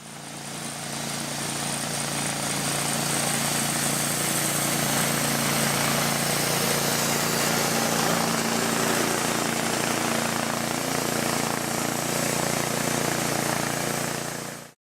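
Bandsaw blade sharpening machine running steadily, a motor hum with a grinding hiss over it. It fades in and stops abruptly near the end.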